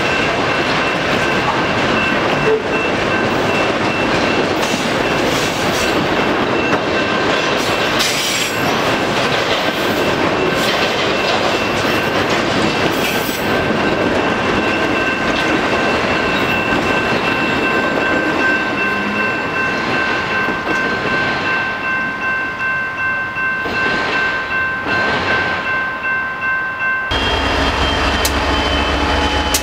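Empty autorack freight cars rolling past close by: a steady rumble and rattle of wheels over the rail, with a thin, steady high squeal from wheels on the rail, easing a little as the last cars go by. Near the end it cuts abruptly to a low steady rumble.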